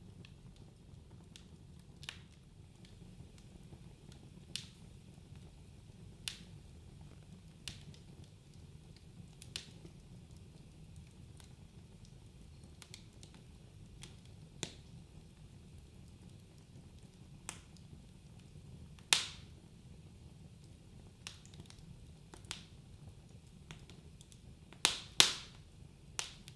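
Wood fire crackling in a fireplace: scattered sharp pops every second or two over a low steady rumble, with a loud pop about two-thirds in and a quick cluster of the loudest pops near the end.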